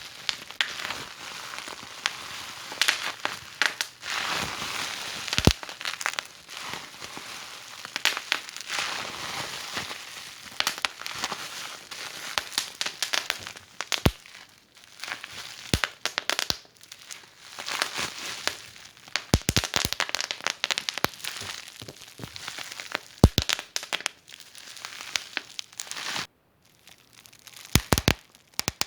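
Wood fire in a fireplace crackling: a soft hiss dotted with frequent, irregular sharp pops and snaps, a few louder ones in the second half, and a brief break about three quarters of the way in.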